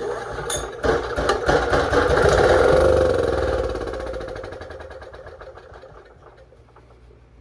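Honda EM3000 generator engine catching and firing unevenly on its first start after sitting unused for decades. It runs up loudly, then fades away over the next few seconds as it falters and dies.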